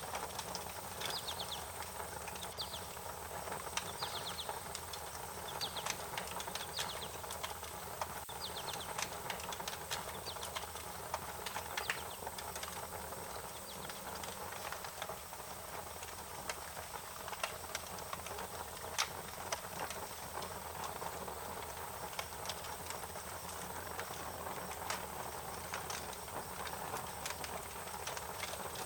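Wood fire crackling, with irregular sharp pops over a steady hiss. A bird gives several short, quick chirps during the first few seconds.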